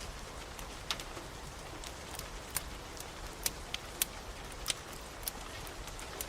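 Wood fire crackling in a fireplace, with scattered sharp pops at irregular intervals, over a steady hiss of rain.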